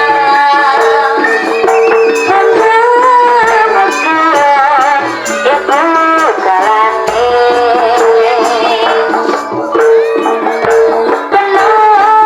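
Live jaranan ensemble music: a wavering melody over a steady held tone, with percussion.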